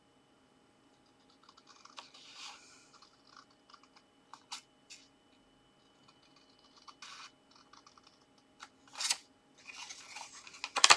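Cardstock being trimmed and handled: scattered small clicks, snips and rustles of card, with a few louder ones near the end.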